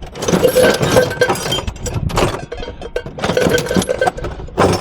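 Metal objects clinking and knocking together as a box of brass pieces and hand tools is rummaged through, with many quick clacks and short metallic rings.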